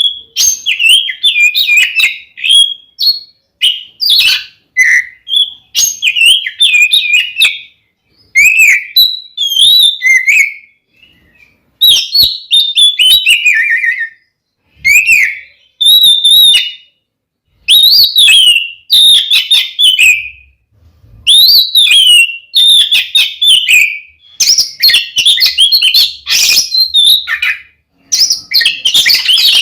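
Kacer (magpie-robin) singing loudly in the aggressive, full-volume style used to provoke rival birds: bursts of rapid whistled and chattering notes, each a second or two long, with short pauses between them.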